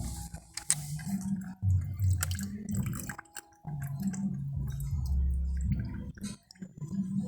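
Water dripping and spattering at a pipe connection being fitted with a union during a service-line leak repair. Under it is a low hum that steps up and down in pitch.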